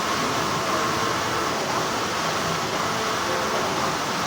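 Steady hum and rush of textile factory machinery running continuously, with no distinct strokes or breaks.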